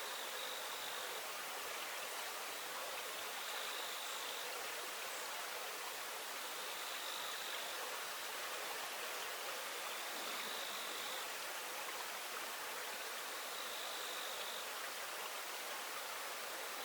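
Steady rush of running river water. A faint, high, buzzy call about a second long repeats about every three and a half seconds over it.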